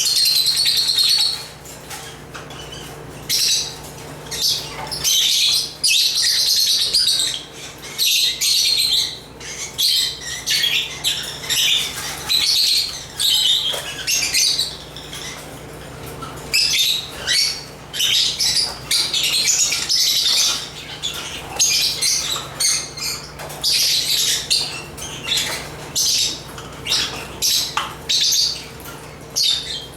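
African lovebirds (Agapornis) chirping in rapid, high-pitched bouts of a second or two with short pauses between, over a faint steady hum.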